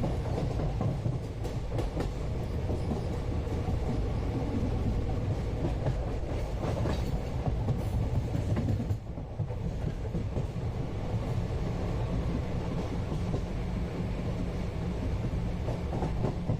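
Moving passenger train heard from inside the coach: a steady low rumble with wheels clicking over the rail joints, briefly quieter about nine seconds in.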